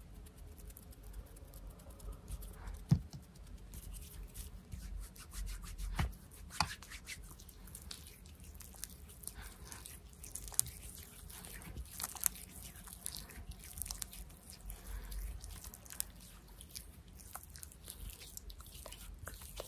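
Close-miked ASMR hand sounds: soft rubbing and rustling of hands with scattered light clicks and taps, a few of them sharper than the rest.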